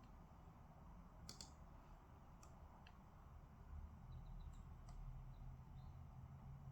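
Near silence: room tone with a low steady hum and a handful of faint, sharp clicks from desk work, the clearest about a second in.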